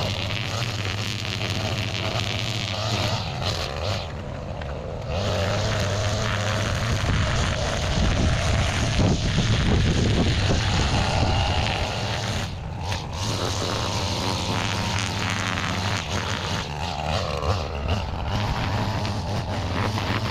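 A small gas engine running on a yard tool used to clear weeds, loud and steady with its load rising and falling; a pitch glides down near the end.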